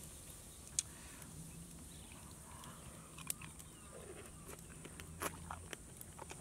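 A person biting and chewing a cooked scorpion: a few sharp, crisp crunches, with several close together about five seconds in.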